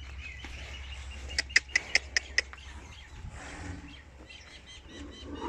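Small birds chirping: a quick run of about six short, sharp chirps between one and a half and two and a half seconds in, over a low steady hum.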